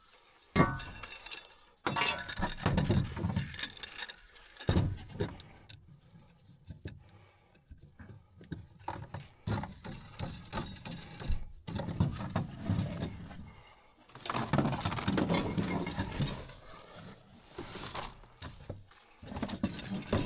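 Irregular knocks, clinks and rattles of hard objects being handled, coming in bursts with short pauses between them.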